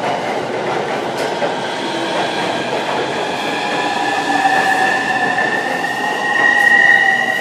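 A JR East suburban electric train running along the platform, pulling away: the rush of its wheels and cars carries a rising electric motor whine that climbs slowly in pitch and grows louder near the end.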